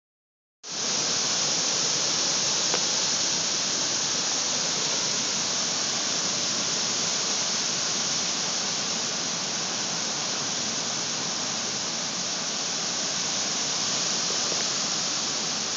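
Heavy hurricane rain falling in a steady, even hiss that starts suddenly about half a second in.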